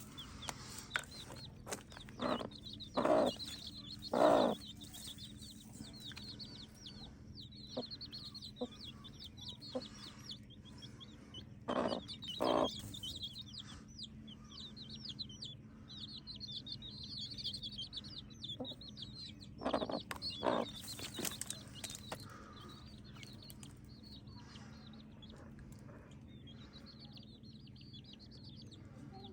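Domestic hen clucking in a few short groups among a run of high-pitched chick peeps. The peeping dies away after about twenty seconds.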